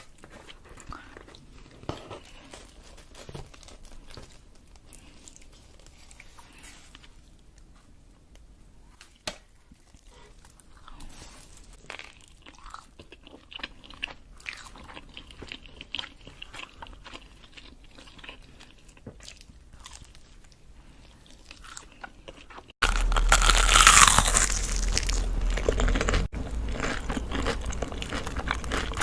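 Close-miked eating: crisp bites and chewing, soft and scattered for most of the stretch, then abruptly much louder and crunchier about 23 seconds in.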